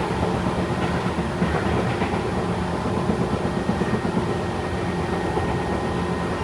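Tobu 8000 series electric train running steadily between stations, heard from inside the car: an even rumble of wheels on rail with a faint steady hum.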